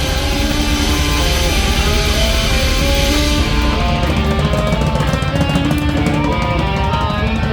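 Live heavy rock band playing, with electric guitar and a drum kit; a wash of cymbals fills the top until about halfway through, after which the guitar and steady drum hits stand out.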